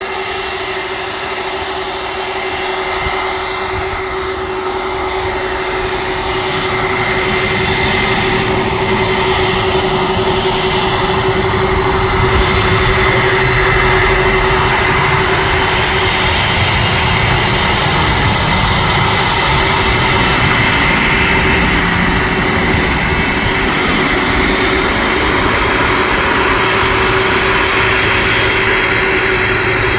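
Jet engines of a Boeing 767-424ER running loudly, a steady whine over a broad roar, growing louder about eight seconds in as the airliner powers up for takeoff.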